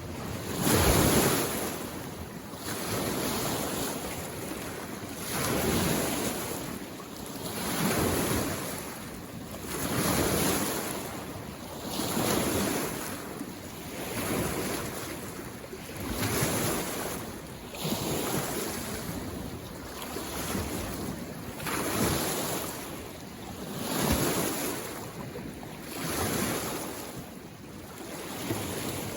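Small waves on a mountain lake washing onto the shore, one swell and retreat about every two seconds.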